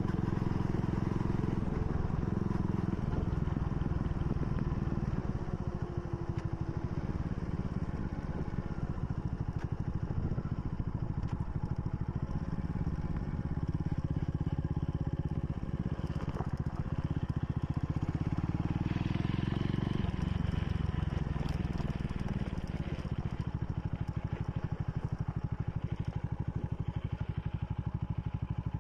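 Motorcycle engine running under way, heard from the bike itself; its note climbs and then drops off about two-thirds of the way in as the bike slows, settling into a steady, even beat near the end.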